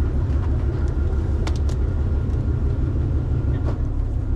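Steady low rumble of the ferry's engine running, with a few sharp knocks and faint voices over it.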